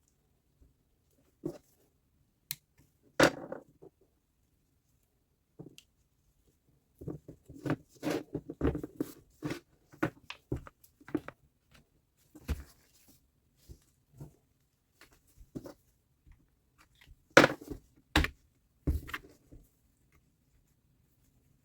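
Small hard parts and tools being handled during reassembly of a reciprocating saw: scattered clicks and knocks, a busy run of small knocks in the middle, and sharp single knocks about three seconds in and twice close together near the end.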